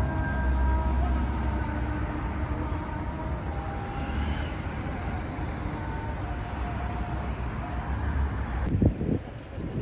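Road traffic: a steady vehicle engine rumble with faint steady whining tones. About nine seconds in the sound changes abruptly, with a few low thumps.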